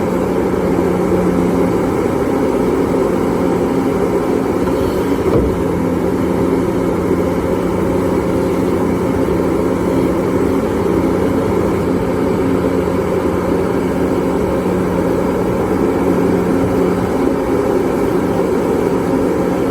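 Large mining excavator's diesel engine running with a steady, heavy drone.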